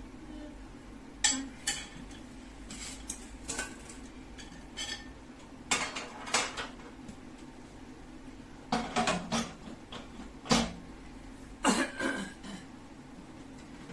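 Hard objects being handled and set down: irregular clinks, taps and knocks, clustered around the middle and again near the end, over a steady low hum.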